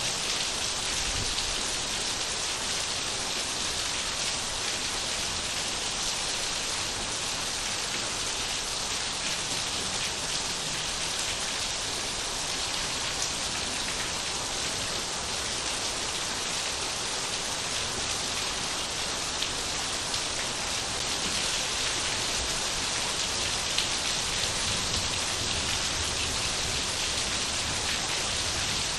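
Steady rain falling and pattering on surfaces, an even hiss of many drops with a few slightly louder drop hits.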